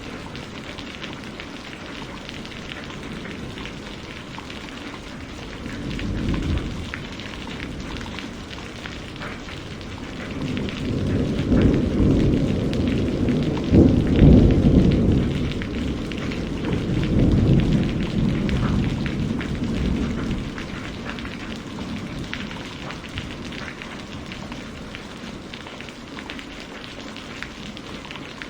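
Steady rain with thunder rolling through it: a brief low rumble about six seconds in, then a long roll that builds, is loudest about halfway, and fades out over the next several seconds.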